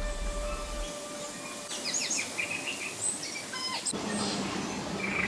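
Birds chirping and whistling in a quick run of short, gliding notes about two to four seconds in, over a low hum that stops about a second in.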